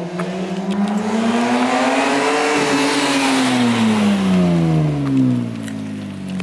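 Car engine revving up and easing off again: its pitch rises for about two and a half seconds and then falls back, with road and wind noise loudest at the peak.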